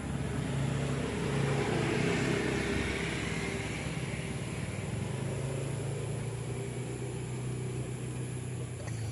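Motor vehicle engine running, with a swell of noise peaking about two seconds in that eases off, as a vehicle passes; a steady low engine hum carries on afterwards.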